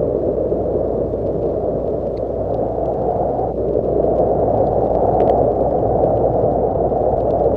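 Horror ambience sound effect: a steady, muffled rushing noise with faint scattered ticks.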